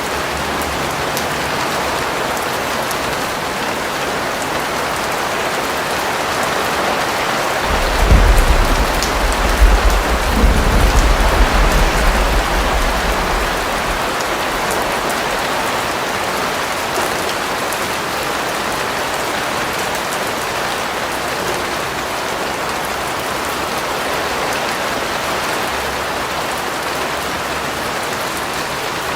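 Steady heavy rain falling and pattering on surfaces. About eight seconds in, a deep low rumble swells for several seconds and then fades.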